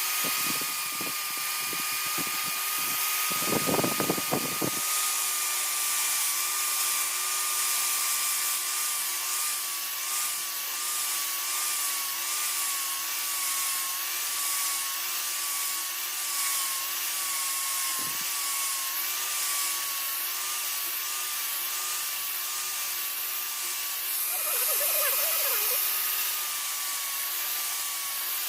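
Electric power tool motor running with a steady whine whose pitch wavers, with a louder, rougher stretch about four seconds in.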